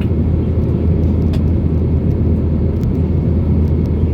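Steady low drone inside the cabin of an Airbus A320 in flight, from the engines and the air rushing past the fuselage. A faint click comes about a second in.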